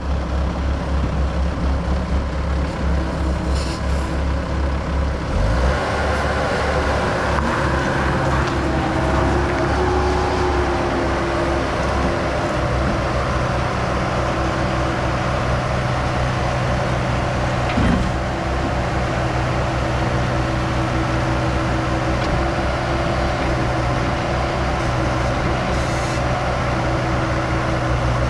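Bobcat S160 skid steer's diesel engine running steadily, picking up speed about five seconds in and holding there, with a brief knock about two-thirds of the way through.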